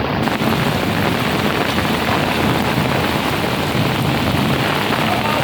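Heavy rain falling in a loud, steady hiss.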